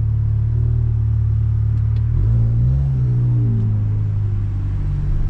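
Modified Audi S3's turbocharged four-cylinder engine, heard from inside the cabin, with a steady low drone as the car idles and creeps. About two seconds in the engine note rises as the car pulls away, then eases back down.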